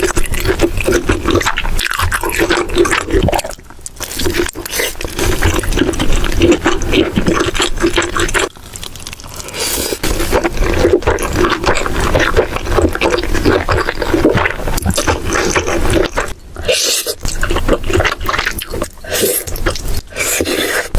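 Close-miked eating sounds: a person chewing food with a dense, irregular crackle of mouth noises, broken by a few short pauses.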